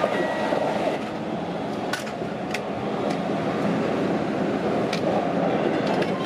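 Keihan commuter electric train running at speed, heard from inside the front car: a steady rumble of wheels on rail with a few sharp clicks, about two seconds in and again near the end. A train on the next track is passing alongside at the very start.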